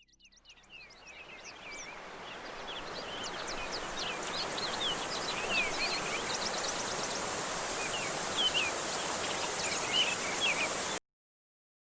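Birds chirping over a steady outdoor hiss, fading in over the first few seconds and cutting off abruptly near the end.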